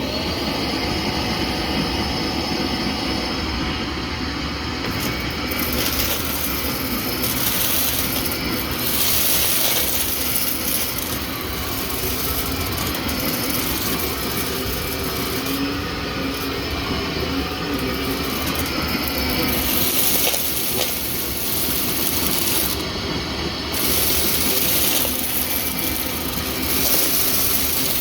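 Vacuum cleaner switched on, its motor spinning up to a steady whine within about a second. It then keeps running, its airy rush swelling and fading every few seconds as it moves.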